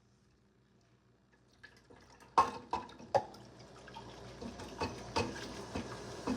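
Warm water running from a tap into a container that holds a little dish soap. The running-water hiss starts about a second and a half in and grows louder as it fills, with several sharp knocks and clunks along the way.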